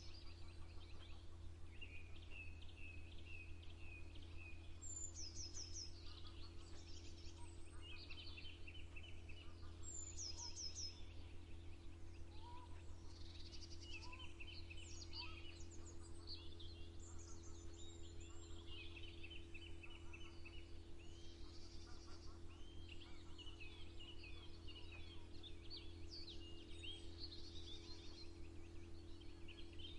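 Several songbirds singing and calling, overlapping chirps and quick trills, with a steady low hum underneath.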